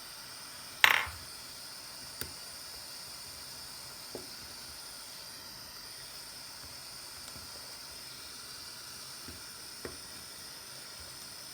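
Small repair tools clicking and tapping against a phone and the work surface: one sharp click about a second in, then a few faint taps, over a steady hiss.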